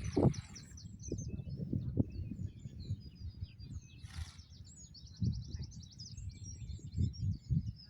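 Several small birds chirping and singing, with a fast high trill about halfway through. Low knocks and rustling run underneath, and a short hiss comes just after four seconds in.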